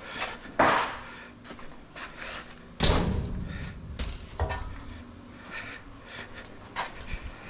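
Scrap metal pieces clanking and clattering as they are handled and tossed, with a loud bang a little under three seconds in and a few lighter clanks after it.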